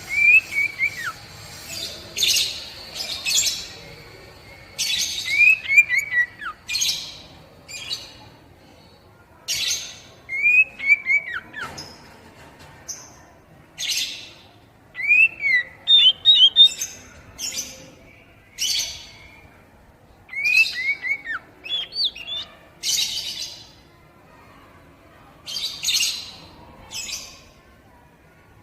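Oriental magpie-robin (kacer) singing: phrases of short, downward-sliding whistled notes mixed with harsh, raspy chatter, repeating every few seconds. It is a kacer song recording used to stimulate young birds to sing.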